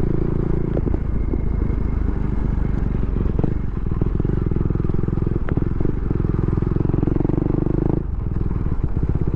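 Motorcycle engine running steadily while riding, its note dipping briefly about eight seconds in.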